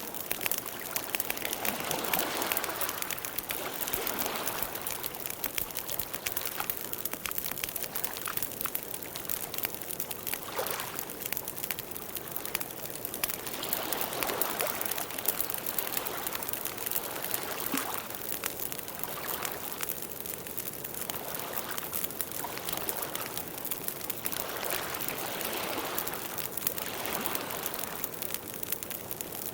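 Campfire burning: a dense, steady crackle of small pops, with the flames swelling in soft rushing waves now and then.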